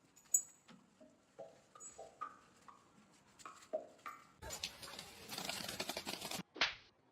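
A dog whimpering in a series of short, high whines, several a second, for about four seconds. Then about two seconds of loud rustling and clattering, and one short falling whine near the end.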